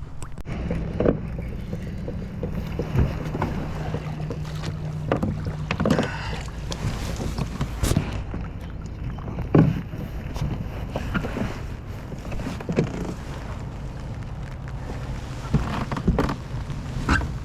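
Sounds on and around a fishing kayak: scattered knocks and taps against the hull over a steady low hum.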